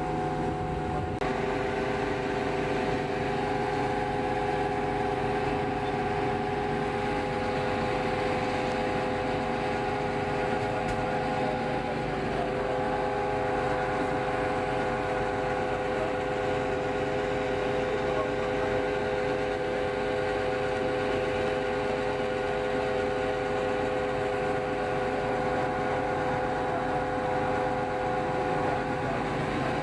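A vehicle's engine running steadily, heard from on board: a continuous drone with several steady humming tones over a low rumble.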